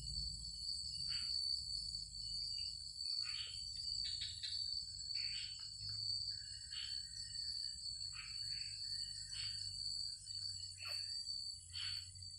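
Insects trilling steadily at a high pitch, with frequent short chirps from other creatures laid over the trill, a few per second.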